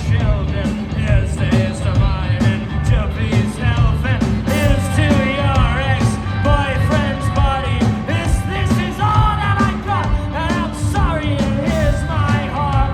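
Rock band playing live: a sung lead vocal over steady, driving drums and bass.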